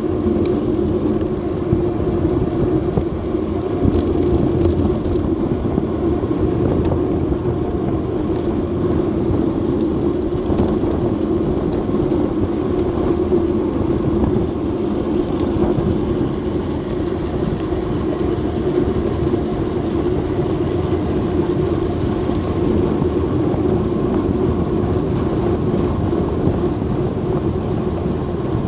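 Steady wind and road noise rushing over an action camera's microphone on a moving bicycle, with a constant hum and no let-up.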